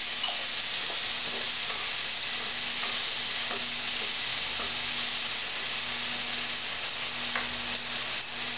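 Garlic, onion and tomatoes sizzling steadily in hot oil in a stainless steel pan, stirred with a wooden spoon that scrapes faintly now and then. A steady low hum runs beneath the sizzle.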